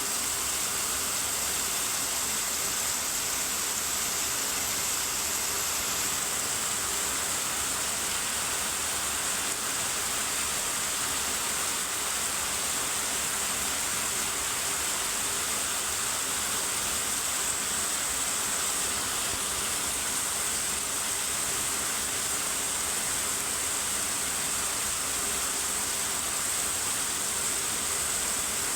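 Steady rainfall: an even, high hiss with no breaks or separate drops standing out.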